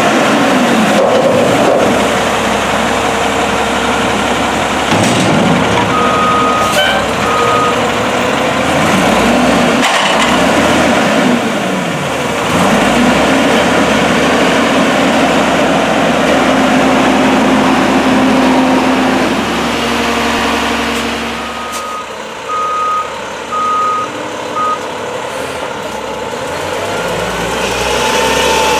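Volvo WXLL garbage truck with an Amrep front-loader body, its engine revving up and down repeatedly. Short backup-alarm beeps sound twice about six seconds in and four times later on.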